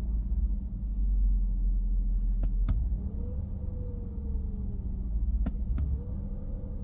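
Mercedes-Benz W221 S550's V8 running at a rough idle: a steady low rumble with a tone that rises and falls about every three seconds, the unsteady idle of a car with rising rpm and low power. Two pairs of sharp clicks, a third of the way in and again near the end.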